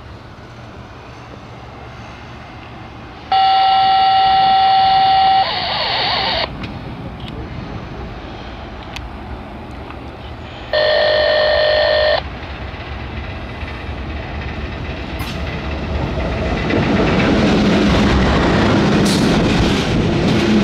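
GE Evolution Series diesel locomotive's multi-note horn sounding one long blast of about three seconds, then a short blast of about a second and a half. Its engine and the freight cars' wheels on the rails grow louder toward the end as the train passes.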